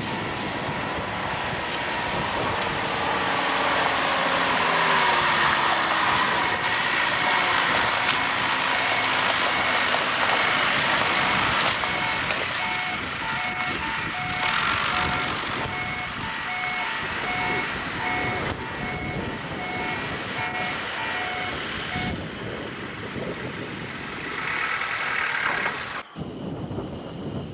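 Diesel train running past. From about six seconds in to past twenty, a repeating electronic warning tone sounds over it, beeping on and off at an even rate.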